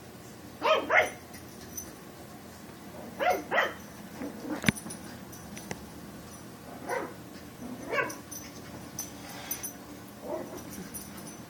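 Pug puppy giving short barks, several in quick pairs, as play barks aimed at the cat. A single sharp click about midway.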